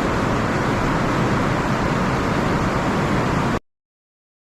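Steady rush of a surging underground river in a cave passage, cutting off suddenly to silence about three and a half seconds in.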